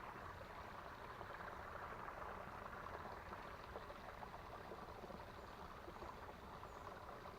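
Small creek's water running, a faint steady rushing.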